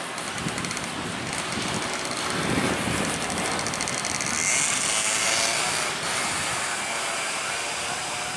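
Steady noisy rumble of a train approaching in the distance, swelling a little twice.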